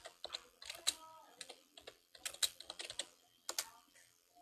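Quick runs of sharp clicks and taps, coming in several bursts with short gaps between them.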